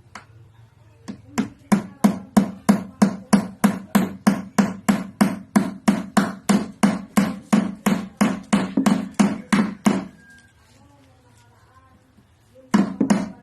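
A hammer driving a nail into wood: a steady run of blows, about three a second, for some nine seconds. The blows pause for a couple of seconds and resume near the end.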